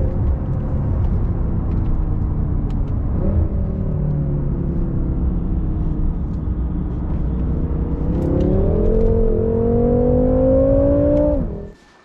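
BMW F10 M5's twin-turbo V8 under way: the engine note falls, steps up sharply about three seconds in, then rises steadily under acceleration from about eight seconds, before the sound cuts off abruptly near the end.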